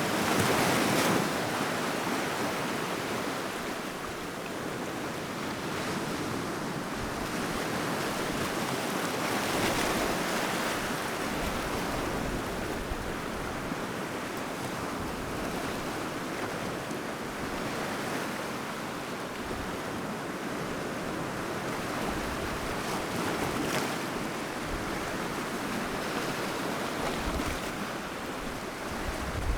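Sea waves breaking and washing on the shore in a continuous surf, rising and falling as each wave comes in, with some wind on the microphone.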